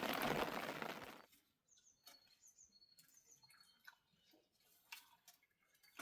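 A loud steady hiss cuts off suddenly about a second in. Then come faint, short, high bird chirps, repeated several times, with a few small clicks.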